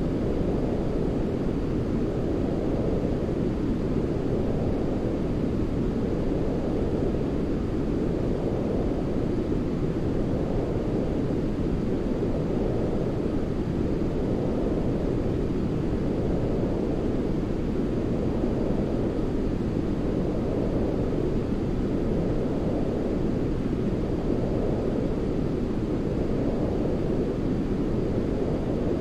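Steady, deep rumbling sleep noise, weighted to low pitches like brown noise rather than hissy white noise, gently swelling and easing every two to three seconds.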